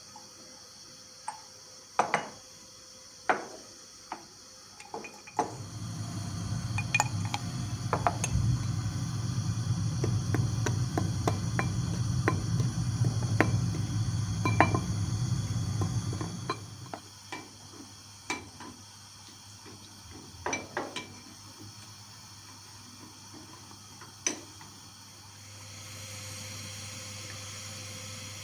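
Kitchen cookware and utensils clinking and knocking: a few sharp knocks in the first seconds, then about ten seconds of dense clatter over a steady low rumble, then scattered clinks. A steady hiss comes up near the end.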